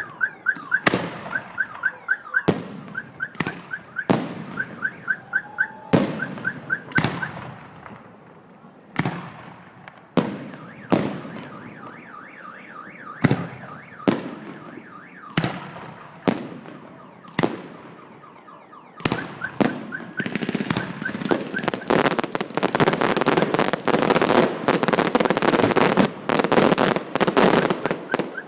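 Fireworks salute: sharp bangs of shells bursting every second or so, building to a dense, continuous crackling barrage for the last several seconds. A fast, repeating high chirp runs under the bangs for the first seven seconds and again around twenty seconds in.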